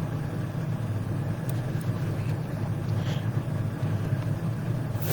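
Steady low rumbling background drone, even and unbroken, with no speech over it.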